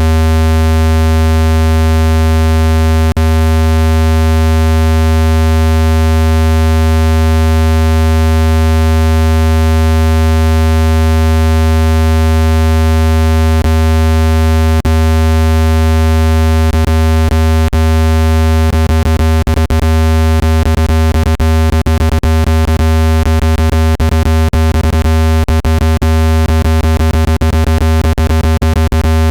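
Loud, steady, low-pitched electronic tone with many overtones, a synthetic speaker-cleaning sound meant to vibrate dust out of a phone speaker. Sharp clicks break in now and then, coming rapidly and irregularly through the second half.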